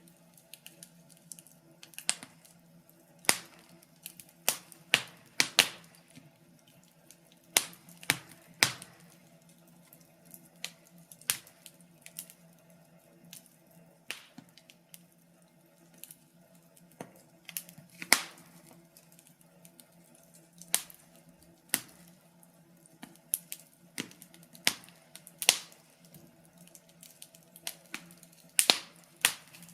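Wood fire crackling: irregular sharp pops and snaps, a few loud ones standing out, over a faint steady low hum.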